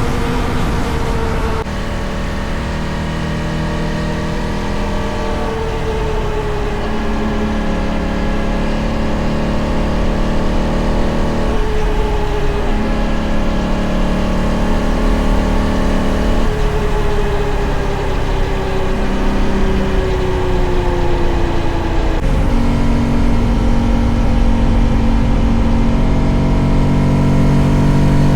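Honda Dax 125's single-cylinder engine running under way, its note shifting up and down in steps several times.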